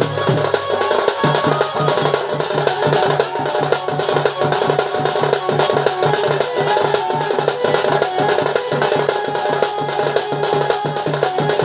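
Danda Nrutya folk music: a drum beating a fast, even rhythm under a sustained melody line.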